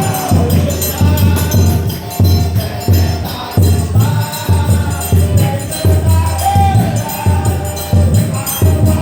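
Brazilian Pentecostal 'corinho de fogo' worship chorus: voices singing over a fast, steady beat with strong bass and percussion.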